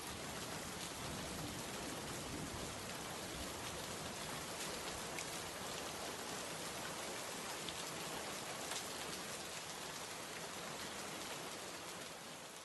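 Steady rain falling: a dense, even hiss with a few sharper drop ticks, starting to fade out near the end.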